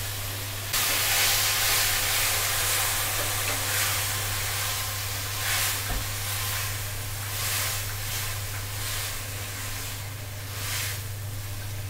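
Fried potatoes, green peas and ground green masala sizzling in oil in a kadhai while being stirred with a spatula. The sizzle jumps louder about a second in and swells and eases with the stirring strokes.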